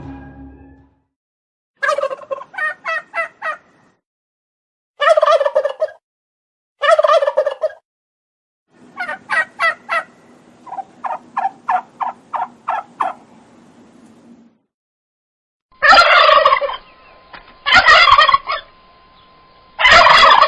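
Turkeys gobbling: a series of short, rapid rattling gobbles, some spaced apart and one longer run of quick pulses. Three louder, denser gobbles come near the end.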